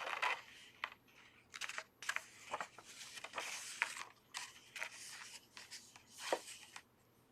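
Paper rustling and light scratching as the pages of a picture book are handled and turned: irregular soft rustles with a few small clicks.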